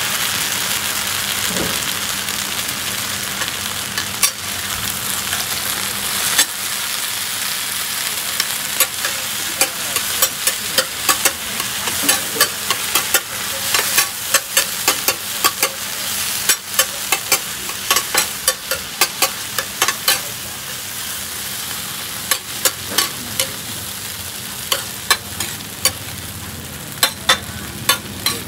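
Oyster omelette frying in hot oil on a large black pan, a steady sizzle as raw oysters cook among the egg. From about eight seconds in, a metal spatula clacks and scrapes against the pan many times a second.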